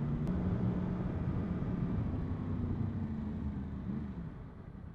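Yamaha MT-10 SP's crossplane inline-four engine running under way, easing off and getting quieter about four seconds in as the bike slows.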